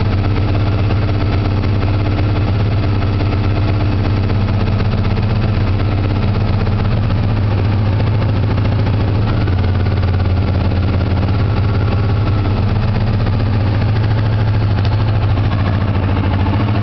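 1986 Honda VFR750F Interceptor's V4 engine idling steadily at a fast idle of about 2,000 rpm, with its carbs out of sync. A light tapping from the top end of cylinder number four is faintly audible under the engine sound.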